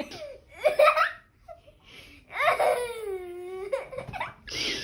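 People laughing, with a long drawn-out vocal sound of about a second and a half whose pitch slowly falls.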